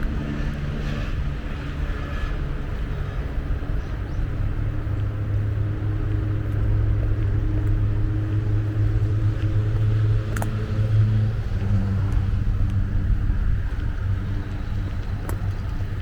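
A motor vehicle's engine humming steadily, growing louder through the middle and easing off after about eleven seconds, over general outdoor background noise.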